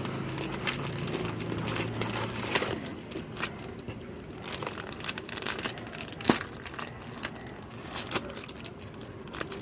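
Plastic wrapper crinkling and crackling in irregular bursts as a packaged mamon sponge cake is unwrapped, with one sharper snap about six seconds in.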